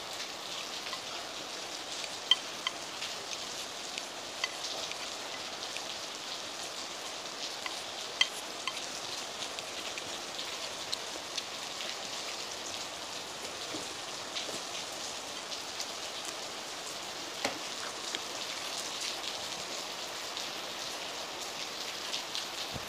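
Heavy rain falling steadily, with a few sharp clicks of chopsticks against a bowl.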